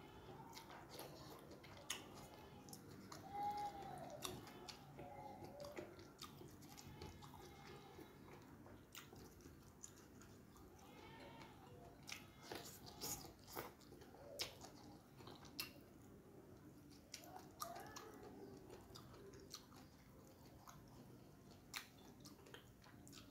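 Faint close-up mouth sounds of stir-fried water spinach (tumis kangkung) being chewed: soft wet chewing with scattered clicks and smacks.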